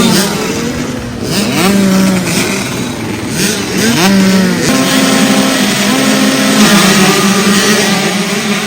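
Motocross dirt bikes racing past, their engines revving hard and climbing in pitch, then dropping back with each gear change, several times over. More than one bike can be heard at once.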